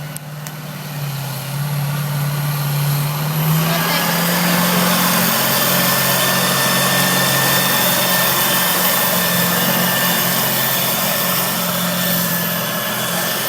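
A White 2-180 farm tractor's diesel engine running hard under load as it pulls the sled. It swells louder about four seconds in and then holds steady, with a steady high whine above the engine note.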